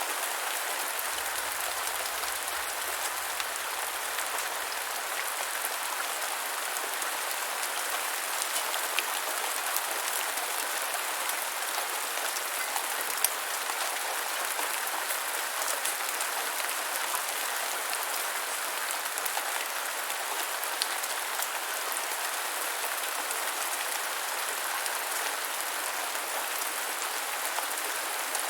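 Steady rain falling, a dense even patter with scattered sharper drop ticks, one a little louder about halfway through.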